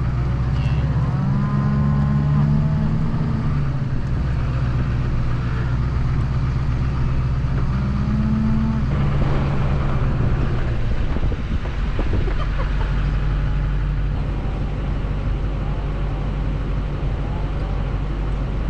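A vehicle engine running steadily at a low hum, with cattle mooing twice, each moo a long call that rises and then falls.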